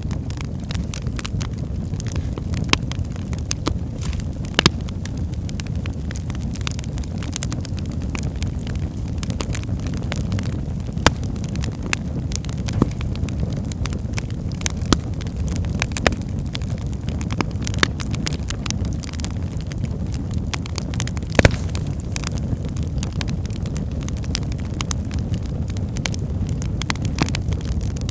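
Wood fire burning in a fireplace: a steady low rumble of flame with frequent sharp crackles and pops from the logs, the loudest pop about three-quarters of the way through.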